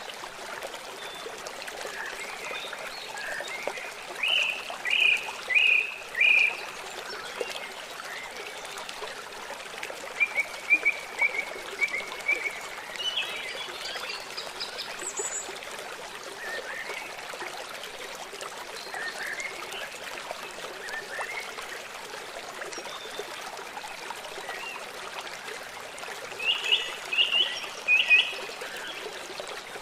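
River water running steadily, with birds singing over it. Short phrases of three or four clear repeated notes come a few seconds in, around ten seconds in, and again near the end.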